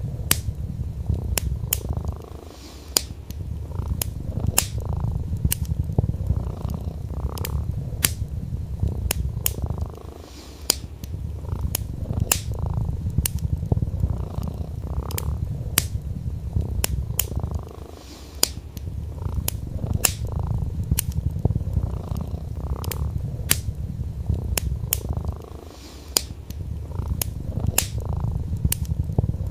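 Domestic cat purring steadily in a low rumble, pausing briefly about every seven or eight seconds, over the crackle of a wood fire: sharp pops, several a second.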